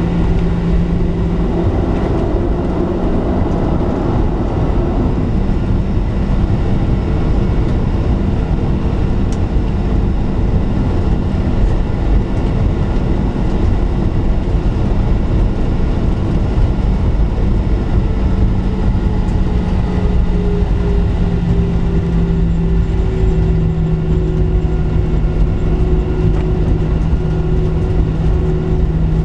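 Boeing 737-700's CFM56-7B jet engines running at low taxi power, heard inside the cabin as a steady low rumble with a droning hum. The hum's pitch shifts slightly about two-thirds of the way through.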